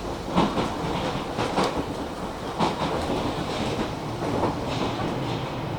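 Hakone Tozan Railway train running on the track: steady rumbling wheel noise with irregular knocks and rattles.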